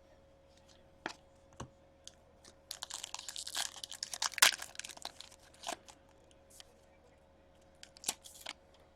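Foil wrapper of a trading card pack being torn open and crinkled: a few light clicks, then a dense stretch of crackling and tearing with one sharp loud rip in the middle, and scattered crinkles near the end.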